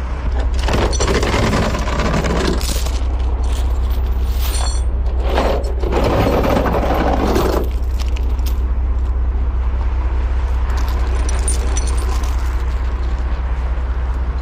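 Heavy truck engine idling steadily under the metallic rattling and clinking of tow chains being handled. The chain noise is heaviest about a second in and again from about five to seven and a half seconds, with lighter clinks between and near the end.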